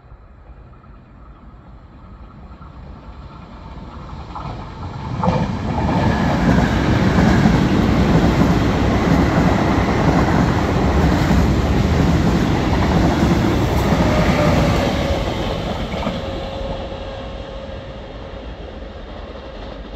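Passenger train of intercity coaches passing on the track: the rumble of wheels on rails builds from about four seconds in, with clicks as the wheels cross rail joints, and is loudest in the middle. It fades as the train draws away, leaving a faint steady whine near the end.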